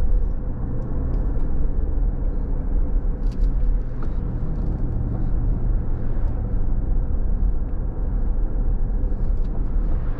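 A car driving steadily on a wet road: a continuous low engine and road rumble, with a few faint ticks scattered through it.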